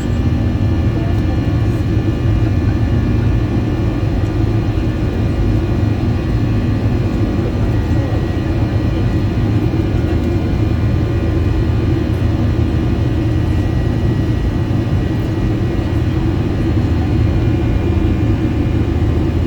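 Steady cabin noise of a Boeing 737-800 in flight: its CFM56 jet engines and the air rushing past the fuselage make a loud low rumble, with several faint steady whining tones above it.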